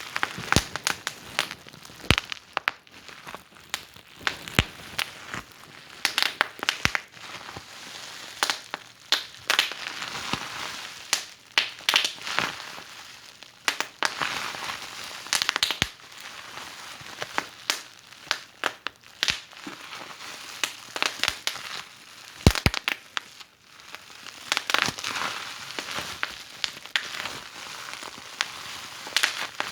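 Wood fire in a fireplace crackling, with irregular sharp pops and snaps over a soft hiss that swells and fades.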